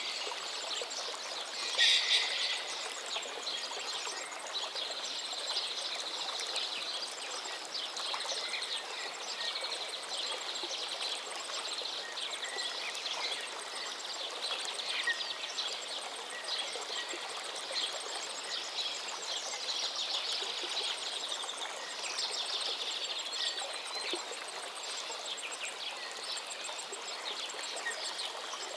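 Many birds chirping and calling at once over a steady background hiss, with one louder call about two seconds in.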